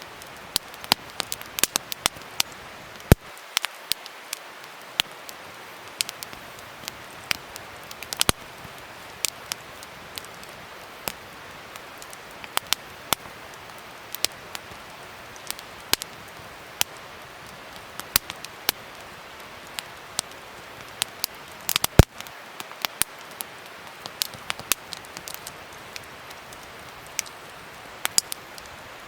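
Wood fire burning, crackling and popping irregularly over a soft steady hiss, with two louder pops, about three seconds in and near the twenty-second mark.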